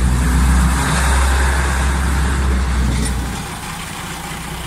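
Diesel passenger railcar passing slowly at close range, a loud low engine rumble with the hiss and clatter of wheels on rail. The rumble falls away about three seconds in as the powered part of the train moves past.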